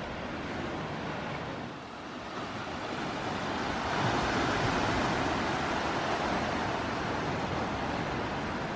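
Ocean surf washing in a rocky sea cove: a swell of wave noise builds from about two seconds in, then slowly eases off.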